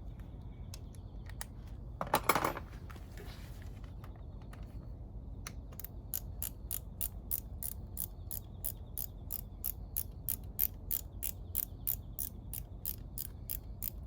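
Ratchet wrench clicking in an even run of about four sharp clicks a second, after a brief louder clatter about two seconds in.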